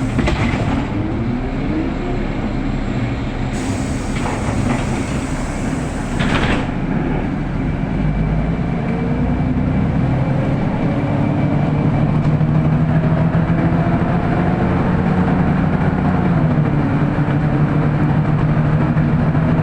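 Inside a city bus: the engine drones steadily as the bus pulls away and gathers speed, its pitch slowly rising. Short hissing sounds come in the first six seconds.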